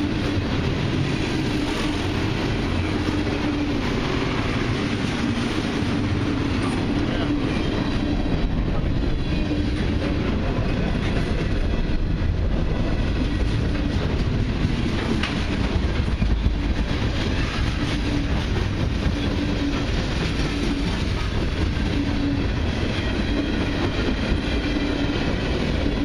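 Freight cars of a long mixed train rolling past close by at a steady speed, their steel wheels running over the rails with a continuous, even noise.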